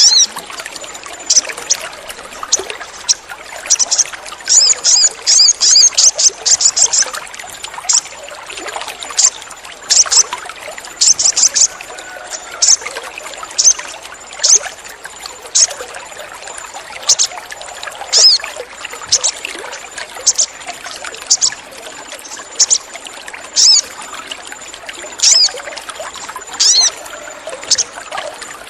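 Sogon (little spiderhunter) giving short, sharp, high cheeps, singly and in quick runs. This is the call used as a lure to get caged sogon to sing. Under the calls runs a steady trickle of water.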